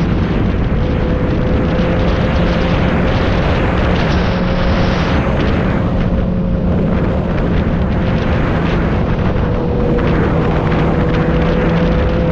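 Motorcycle riding at a steady speed: heavy wind noise on the microphone over a steady engine note that barely changes in pitch.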